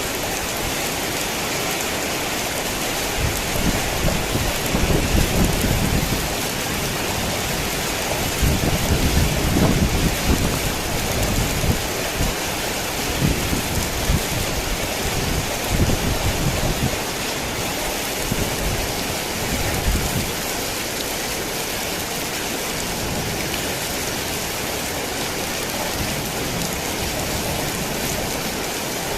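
Heavy rain falling steadily, with bursts of low rumbling that come and go through the first two-thirds and then die away.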